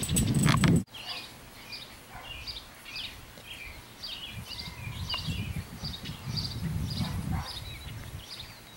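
Small birds chirping repeatedly in short high calls, over low rustling and snuffling from English bulldog puppies nosing about in the grass. A louder low noise in the first second cuts off suddenly.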